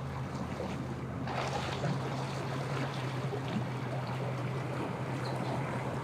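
A motor engine running steadily with a low, even hum, over a haze of wind and water noise.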